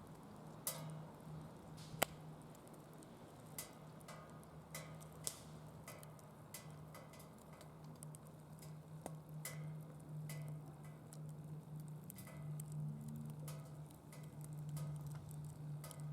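Wood fire in a secondary-combustion fire pit crackling, with irregular sharp pops and ticks, the loudest a sharp pop about two seconds in. A steady low hum runs underneath.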